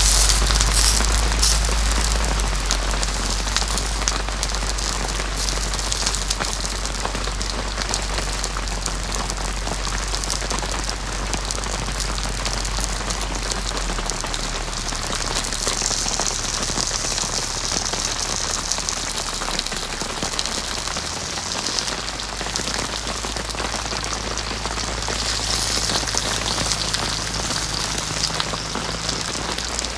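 Heavy rain falling steadily, a dense hiss of countless drop impacts.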